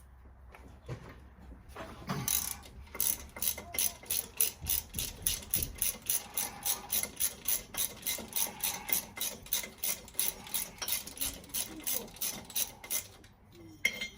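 Hand ratchet wrench clicking steadily, about four clicks a second, as it backs out a pulley bolt on a Ford 302 V8. It starts about two seconds in and stops near the end.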